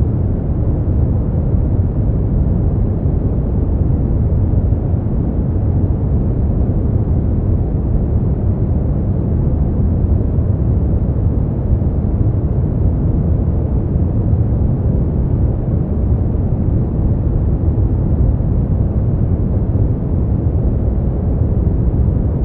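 Steady brown noise: a deep, even rumble of random noise, strongest in the bass and fading toward the treble, with no changes or events.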